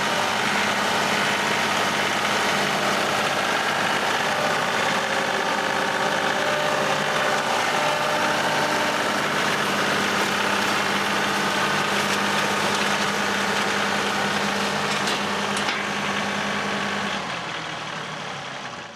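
John Deere 2038R compact tractor's diesel engine running steadily, dying away near the end.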